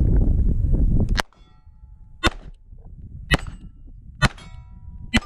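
Five 9mm pistol shots from a Beretta 92, about one a second, fired at steel plates; several shots are followed by the thin ringing of a steel target being hit. Wind rumble on the microphone stops abruptly with the first shot, about a second in.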